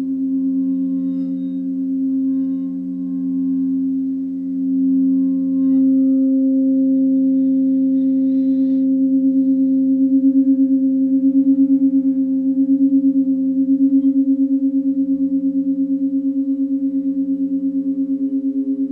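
Singing bowls sounding together: several low sustained tones that pulse slowly as they beat against each other, with a faint brief rustle about eight seconds in.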